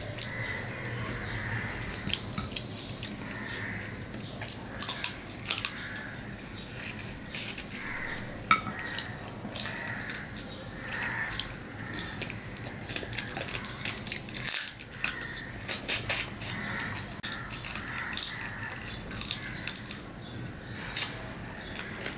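Close-up eating sounds of a person chewing and gnawing meat off a chicken bone from a chicken curry, with wet mouth smacking and many scattered sharp clicks and crunches.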